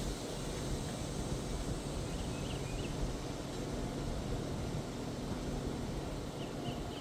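Freight cars of a mixed manifest train, covered coil cars and tank cars, rolling past with a steady rumble of steel wheels on the rails.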